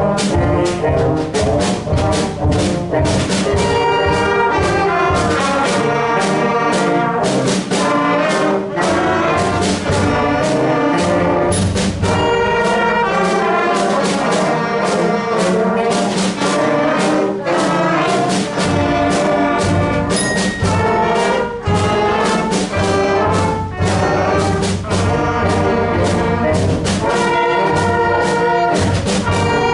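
A school concert band plays a jazz piece, with brass (trumpets and trombones) to the fore over a steady bass pulse, and many notes played short and detached.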